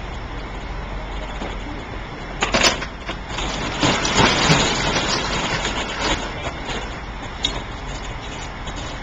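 Delivery truck engine idling steadily, with a couple of sharp clanks about two and a half seconds in and a few seconds of louder rattling, hissing noise just after.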